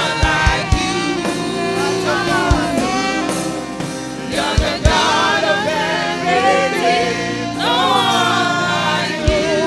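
Gospel worship song: voices singing over sustained keyboard chords, with a kick drum thumping now and then.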